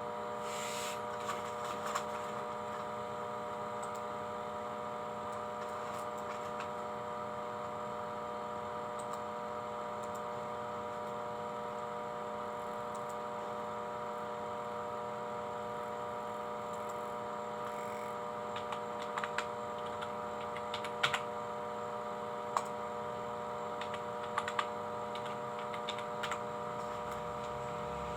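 Steady electrical hum made of several fixed tones, with scattered light clicks and taps, most of them in the second half.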